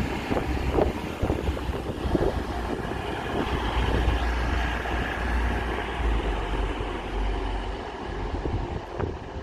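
TransPennine Express Class 185 diesel multiple unit moving off along a far track: a low engine and running rumble with sharp wheel clicks over rail joints early on, easing a little as it draws away.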